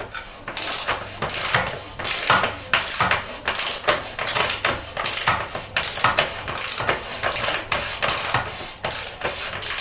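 A torque wrench's ratchet clicking in short repeated rasps, about two a second, as it winds a threaded Shimano Hollowtech II bottom bracket cup into the frame with the cup tool.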